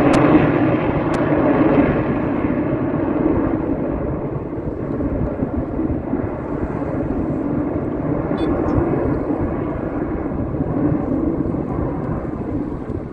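An airshow aircraft passing by, its engine noise loudest at first and then slowly fading as it flies away.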